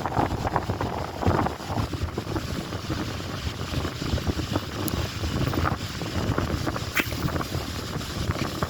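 Strong gusty wind buffeting the microphone, with choppy lake water splashing and lapping against the shore.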